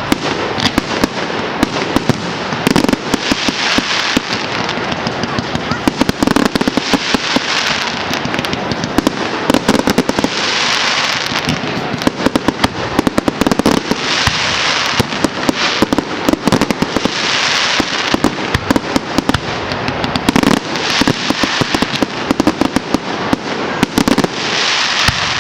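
Fireworks display going off continuously: a dense run of rapid bangs and crackling, with a louder hissing surge every three to four seconds.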